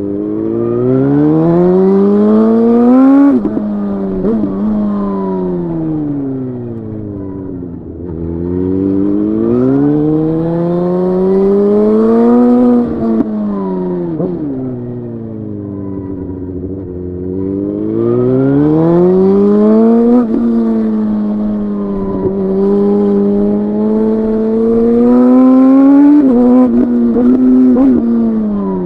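Suzuki GSX-R 1000's inline-four engine accelerating hard about four times, its pitch climbing steeply and dropping sharply at each gear change, then falling away slowly as it decelerates between pulls.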